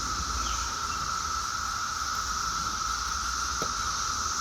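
Steady outdoor insect chorus: two continuous high even tones, with a faint low rumble underneath.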